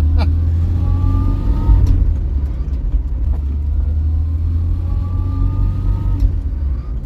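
Vauxhall Viva HC's 1256 cc four-cylinder engine pulling the car along under acceleration: a deep steady drone with a faint whine that rises twice, about a second in and again past halfway.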